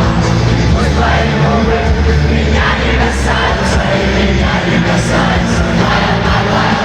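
Live rock band playing loudly over an arena PA, with sung or shouted vocals over a heavy, steady bass.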